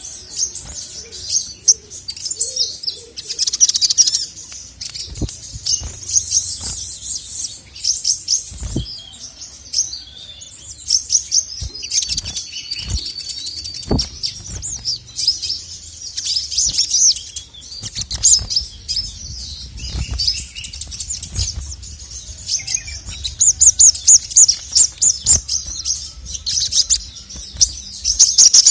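Male sogon (sogok ontong, the little spiderhunter) singing a rapid, high chirping song of quick note runs and trills, busiest near the end, with a few soft low thumps mixed in.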